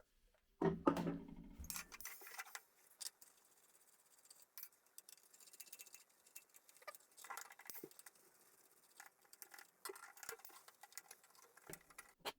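Small parts being handled: irregular light clicks, taps and scraping, with one louder knock and rustle about a second in.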